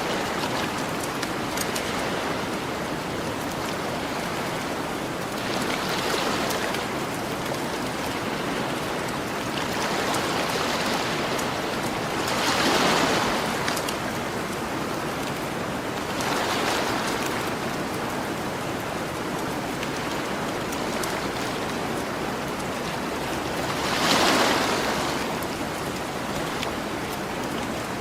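Gentle ocean waves washing onto a beach, swelling and fading every few seconds, with two larger waves, one near the middle and one near the end. A campfire crackles lightly underneath with small scattered pops.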